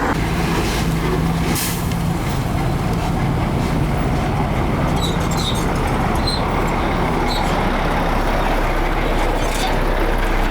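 Heavy diesel engine of earthmoving machinery running steadily. A short hiss comes about one and a half seconds in, and a few brief high squeaks come around the middle.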